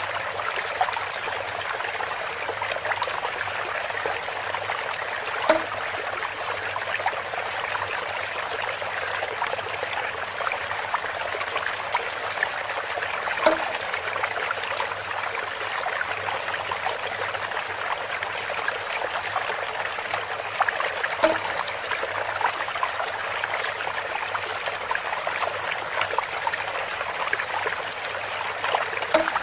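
Water trickling and splashing steadily in a bamboo water fountain, with a short pitched knock four times, about every eight seconds.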